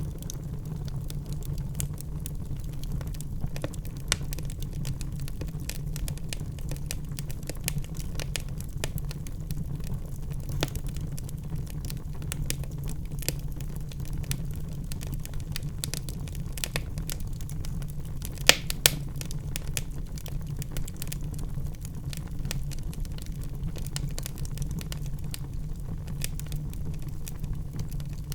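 Wood logs burning in a fireplace: a steady low rumble of flames with constant small crackles, and two louder pops in quick succession about two-thirds of the way through.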